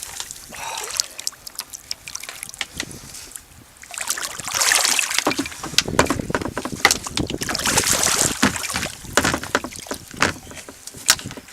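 Water splashing and sloshing beside a kayak in several bursts as a large flathead catfish is fought alongside, with many small knocks and clicks on the hull and gear.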